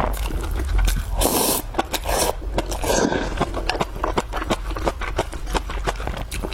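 Close-up eating sounds: rapid crunching, clicking and smacking of someone chewing fried food, with a few louder wet, scraping bites about a second in and again around two and three seconds in.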